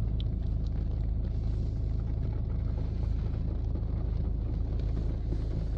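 Steady low rumble heard from inside a car's cabin as it rides through a touchless car wash tunnel, with no brushes running.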